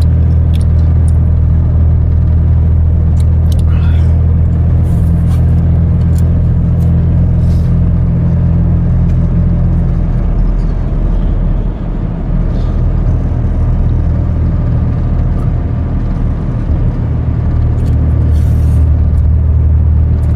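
Steady low drone of a truck's engine and road noise heard inside the cab while driving; it eases off about halfway through and builds again near the end.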